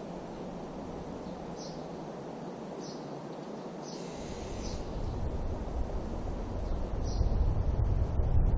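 Outdoor woodland ambience with short, high bird chirps about once a second. About halfway through, a low wind rumble on the microphone builds and grows louder.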